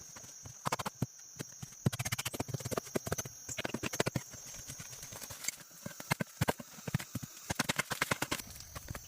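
A rapid, irregular series of sharp knocks and clicks, several a second, over a steady high-pitched whine.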